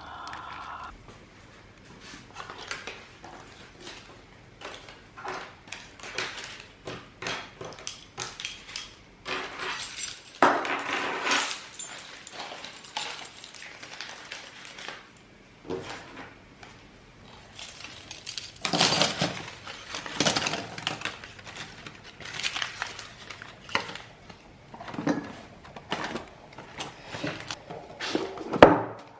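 Dishes and cutlery being handled and put away: irregular clinks and knocks, with longer bouts of clattering about a third of the way in and again past the middle, and a sharp knock just before the end.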